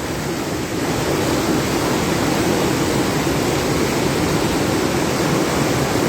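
Floodwater rushing, a steady even noise of fast-moving water that grows a little louder about a second in.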